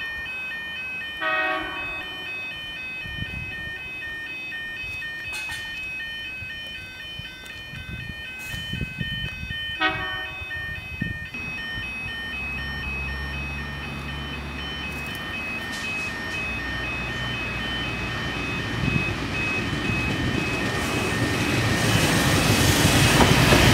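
Level crossing bells ringing in a fast repeating pattern as a CityRail Endeavour diesel railcar approaches. The railcar's horn sounds briefly twice, about a second in and about ten seconds in, then its diesel engine hum and rail noise grow steadily louder toward the end as it nears.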